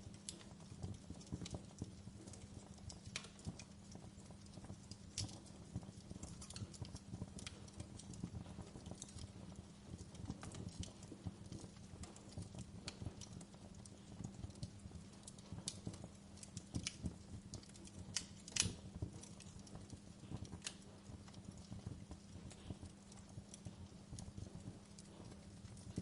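Wood fire in a fireplace crackling steadily, with frequent sharper pops; the loudest snap comes about eighteen seconds in.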